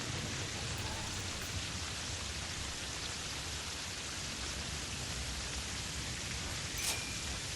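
Steady hiss with a fine crackle, like rain, and a single sharp click about seven seconds in.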